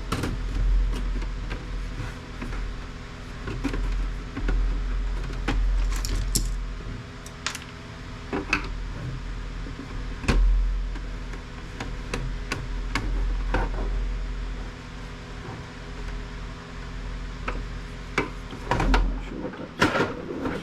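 Clicks, knocks and rattles of plastic and metal printer parts being handled and pried apart by hand, irregular throughout, with a sharper knock about halfway through and a cluster of clatter near the end.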